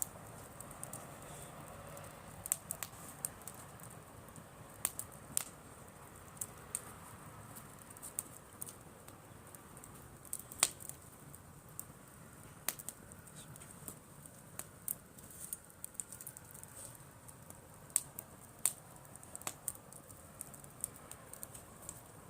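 Driftwood campfire crackling: irregular sharp pops, a few louder than the rest, over a faint steady background.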